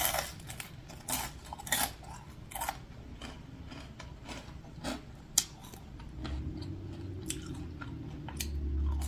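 Close-up crunchy chewing and biting of a fried onion ring, a run of crisp crunches with pauses between them. A low steady hum comes in during the last few seconds.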